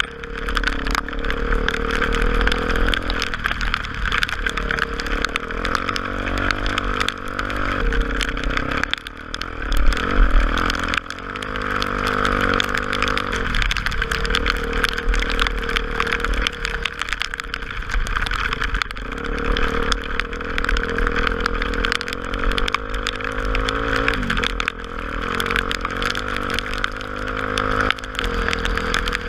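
Single-cylinder engine of a Honda XR250 Tornado motorcycle running under way, its note rising and falling several times as it changes speed.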